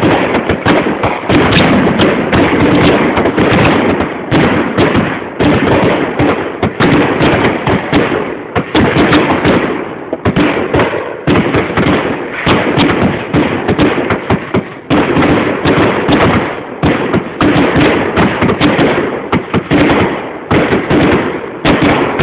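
Fireworks finale barrage: many loud bangs a second, overlapping into a continuous rolling volley with only brief dips.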